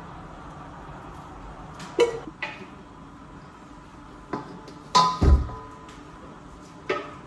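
Pots, dishes and utensils being handled: a handful of separate knocks and clinks, the loudest about five seconds in with a dull thud and a short ring.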